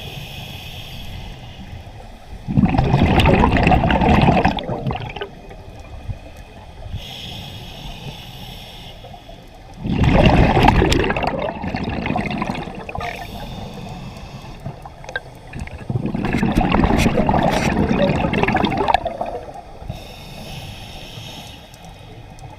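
A scuba diver breathing through a regulator underwater: a soft hiss on each inhale, then a loud gurgling rush of exhaled bubbles, three breaths about six seconds apart.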